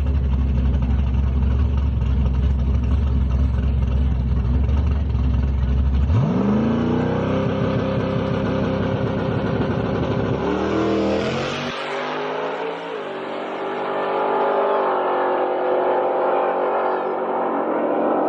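Car engines on a drag launch: a steady low rumble at the start line, then about six seconds in the revs shoot up and the car accelerates hard. The engine pitch climbs, drops back at each upshift and climbs again.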